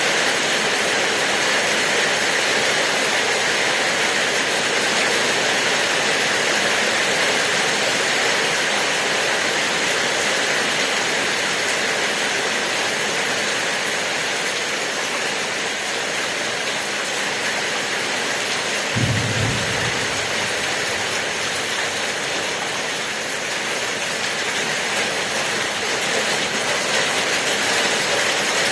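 Steady rain falling, an even hiss at constant strength. About two-thirds of the way through there is a brief low rumble or thump lasting about a second.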